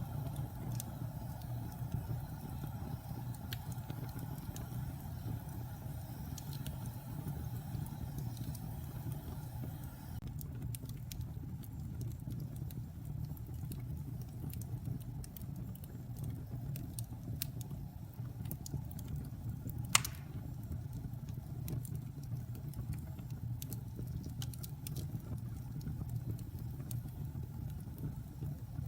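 Fire burning in a fireplace: a steady low rumble with scattered crackles that grow denser about a third of the way through, and one loud sharp pop about two-thirds of the way in.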